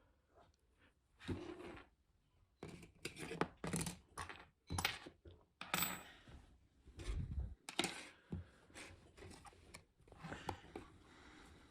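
Small hard parts and tools being handled on a work surface: irregular clicks, taps and short scrapes, with a dull thump about seven seconds in.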